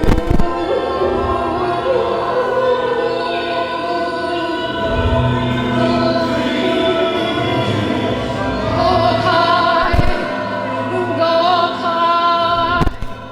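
Worship music: a choir of voices singing sustained, held chords over instrumental backing.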